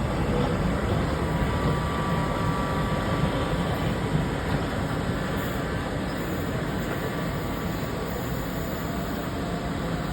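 Class 455 electric multiple unit heard from inside the carriage while running: a steady rumble of wheels and running gear with faint thin tones above it, easing slightly in loudness in the second half.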